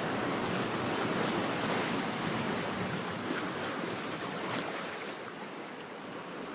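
Ocean surf: a steady rush of waves that swells over the first couple of seconds and then slowly eases off.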